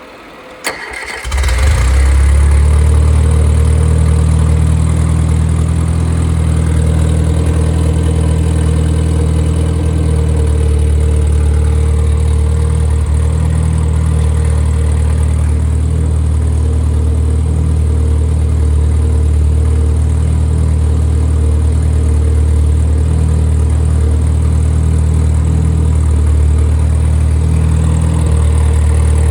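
Freshly rebuilt Triumph Spitfire 1500 inline four-cylinder engine, with a 270 cam and raised compression. A click comes just under a second in, then the engine catches and starts at once and runs steadily.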